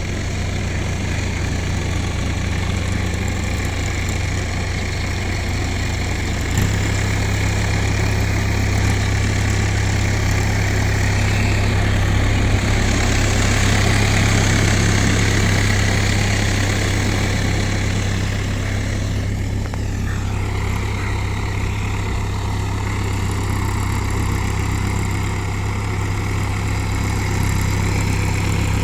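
Massey Ferguson MF 385 tractor's diesel engine running steadily with a deep drone that grows stronger about six and a half seconds in.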